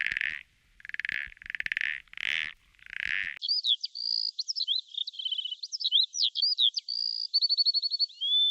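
A frog calling, about six short rasping calls roughly half a second apart, cut off abruptly after about three seconds. A songbird follows, singing a varied song of clear whistles, rapid trills and quick up-and-down pitch glides.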